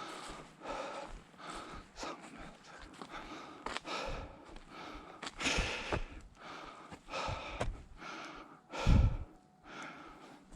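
A hiker's heavy breathing and footsteps while climbing a mountain trail, with one dull bump on the microphone about nine seconds in.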